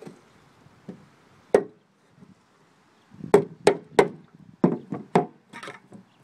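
Hammer knocking on a stuck carburetor on a Briggs & Stratton mower engine to jar it loose: one sharp strike, then a quick run of about six more.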